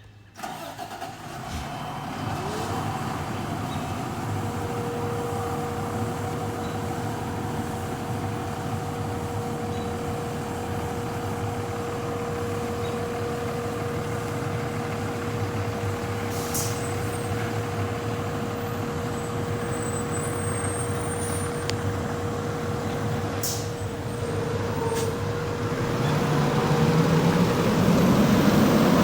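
A fire truck's engine running with a steady whine over it, growing louder near the end.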